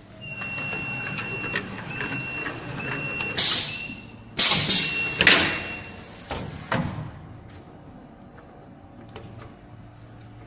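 Automatic EPDM gasket-inserting machine for aluminium profiles running with a steady high whine for about three seconds, then a few loud sharp clacks over the next two seconds and two smaller clicks after.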